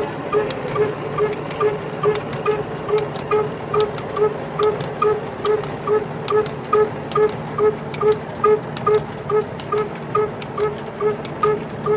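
Diesel engine running slowly and evenly, its exhaust beats coming about three times a second in a steady rhythm.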